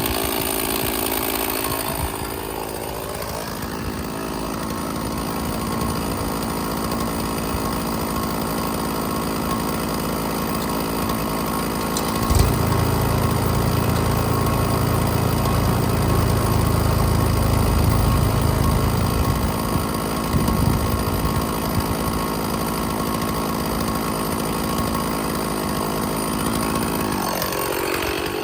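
Stihl chainsaw running and cutting through logs to buck them into firewood rounds. A deeper low rumble joins for several seconds midway, and the engine pitch falls near the end as the saw winds down.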